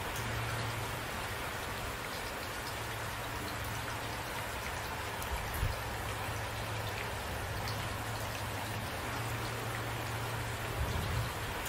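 Steady rain falling, an even hiss of drops, with a steady low hum underneath and a few brief low thumps, the sharpest about halfway through.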